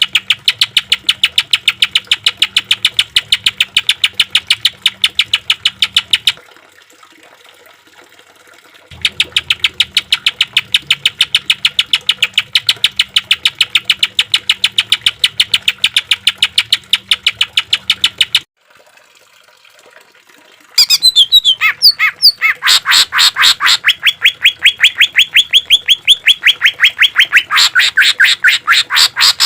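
Green leafbird (cucak ijo) singing loud, rapid-fire 'tembakan' phrases: fast runs of repeated sharp notes, several a second, in three bouts with short pauses between. The last bout opens with a few varied notes.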